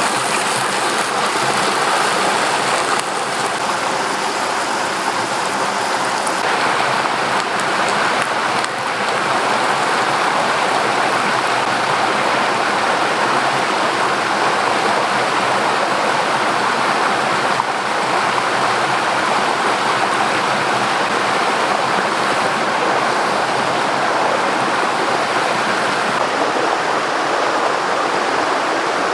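Steady rushing of a river's flowing water, a continuous loud wash of noise without a break.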